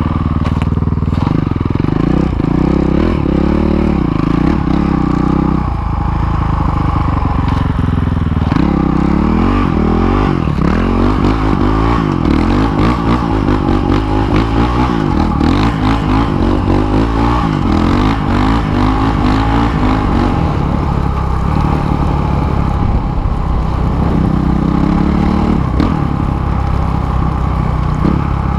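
Dirt bike engine running under a rider, its pitch rising and falling over and over as the throttle opens and closes while riding through snow.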